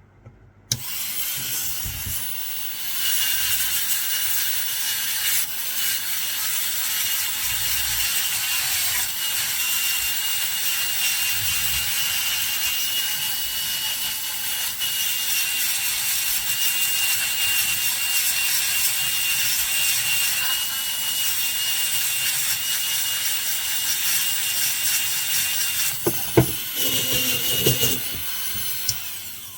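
Slow-speed dental handpiece spinning a soft polishing brush against an amalgam filling: a steady high whine over a continuous hissy scrubbing, polishing the filling to a shine. It starts just under a second in and eases off briefly near the end.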